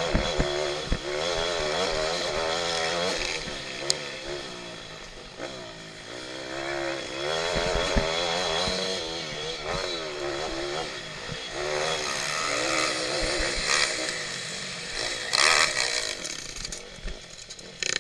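Pitbike engine racing, its pitch rising and falling over and over as the rider revs up and backs off through the track. A few short knocks are heard, mostly in the first half.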